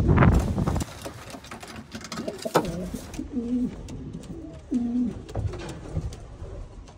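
Racing pigeon cooing, several short low coos in the middle, after a loud rush of noise in the first second.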